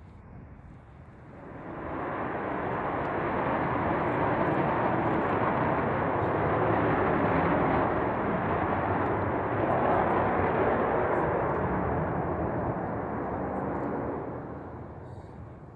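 Avro Vulcan's four Rolls-Royce Olympus turbojets passing overhead: a broad jet rush swells in about two seconds in, holds loud for some twelve seconds, then fades near the end.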